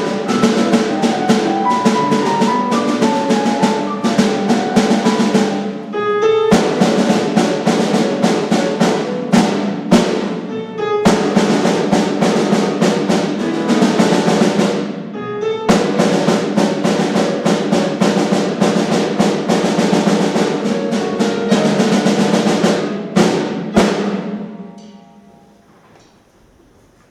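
Live instrumental music carried by fast, dense drum and percussion strikes over held pitched notes, broken by three short pauses. The playing stops about three-quarters of the way through, and its ringing dies away.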